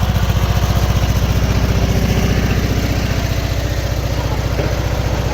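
Riding lawn mower engine running steadily with an even, rapid pulsing, easing off slightly about three seconds in.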